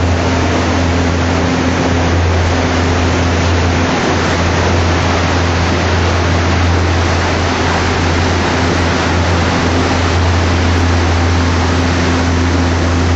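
Cruise boat's engine running at a steady drone, a constant low hum under a loud, even rush of wind and water noise.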